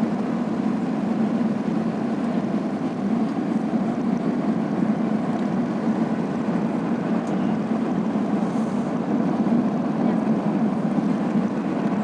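Steady cabin noise of an Airbus A380-800 on final approach: engine and airflow noise heard from inside the passenger cabin, even and unbroken.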